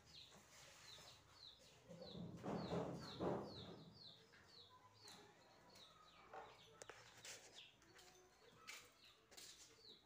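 Faint, short high bird chirps falling in pitch, repeated two or three a second, with a burst of rustling about two seconds in that is the loudest sound.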